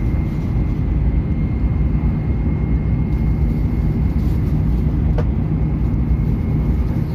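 Hokuriku Shinkansen train running at speed, heard from inside the car: a steady low rumble with a thin, high, steady whine over it. There is one short click about five seconds in.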